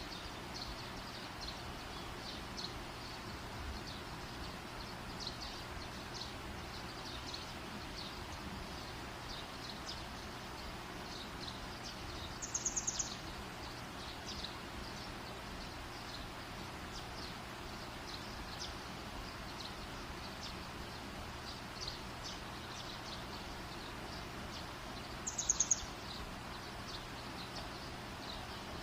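Campfire burning, with a steady hiss and light, scattered crackling. Twice, about midway and again near the end, a brief high rapid chirping call sounds over the fire, louder than the crackle.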